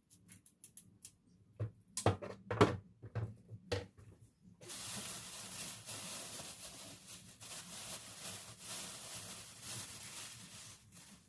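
Kitchen handling sounds: a few sharp knocks and clicks in the first four seconds, then a steady hiss that starts about four and a half seconds in and stops just before the end.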